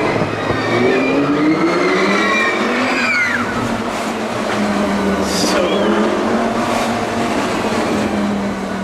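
Lamborghini Gallardo V10 engine heard from inside the cabin, rising in pitch as the car accelerates over the first few seconds, then running at a steady pitch.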